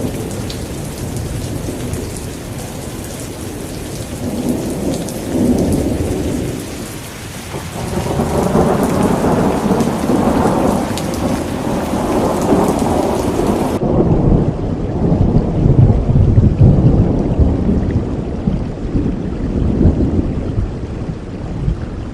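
Steady heavy rain with rolling thunder that rumbles and swells several times, loudest in the second half.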